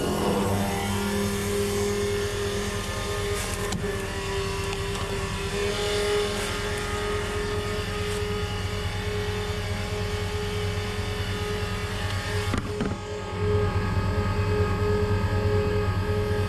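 A motor running steadily with a constant hum, dipping briefly and then settling into a lower, louder hum about 13 seconds in.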